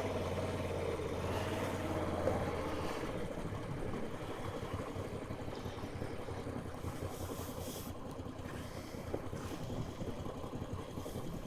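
Moto Guzzi V85 motorcycle's air-cooled transverse V-twin running at low revs, a steady low rumble that eases slightly after about three seconds.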